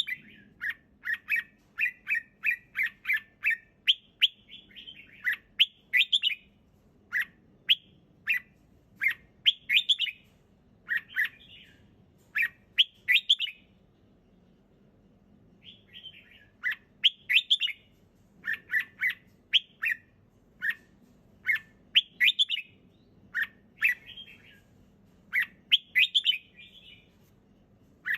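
Red-whiskered bulbul singing: short, bright phrases of quick notes repeated over and over, with a pause of about two seconds midway.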